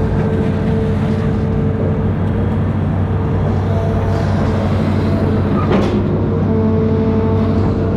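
Amphibious excavator's diesel engine running steadily under load, with a steady hydraulic whine that rises in and out, and a single sharp knock about six seconds in.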